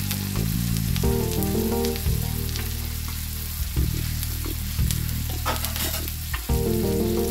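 Chicken sizzling and frying in butter on a flat tawa, a steady crackling hiss. A few sharp clicks come over it, the loudest about five and a half seconds in.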